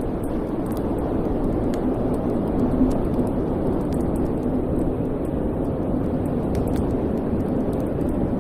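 Wood fire burning in a fireplace: a steady low rush of flames with faint, scattered crackles.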